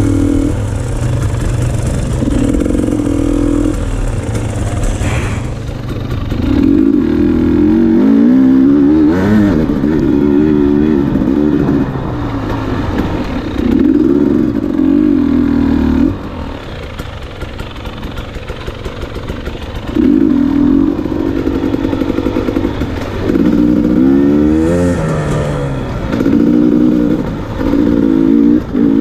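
Dirt bike engines revving in repeated short throttle bursts, the pitch rising and falling with each blip. A quieter stretch of about four seconds comes a little past the middle.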